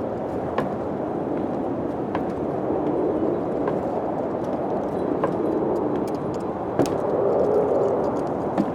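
Wind blowing steadily, swelling about three seconds in and again near the end. Scattered faint clicks and a few sharper knocks run through it.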